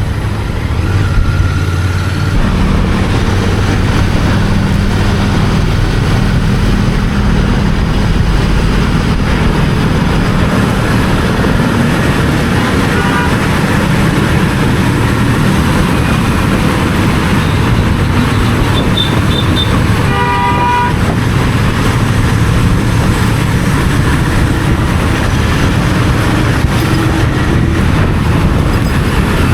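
Royal Enfield Continental GT 650's 648 cc parallel-twin engine running through its stock exhaust at a steady cruising throttle. A vehicle horn honks briefly about twenty seconds in.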